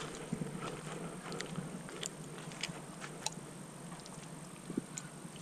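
Quiet outdoor background with a faint steady high-pitched tone and a few scattered sharp clicks and taps.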